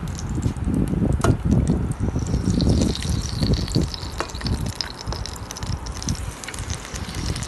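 Battered onion rings deep-frying in hot oil: a continuous sizzle with many small crackles, and a higher hiss from about two seconds in until about six seconds in.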